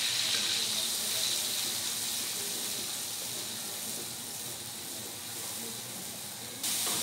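Blended chilli, shallot and garlic spice paste with tomato and kaffir lime leaves sizzling as it sautés in oil in a wok: a steady hiss that slowly fades, then jumps louder suddenly near the end.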